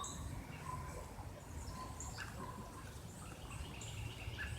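Small birds chirping: short, high chirps scattered through, over a steady low background rumble.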